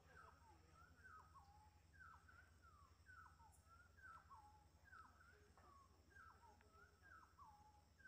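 Faint bird calls repeated a little more than once a second, each a quick falling note that ends in a short level tail.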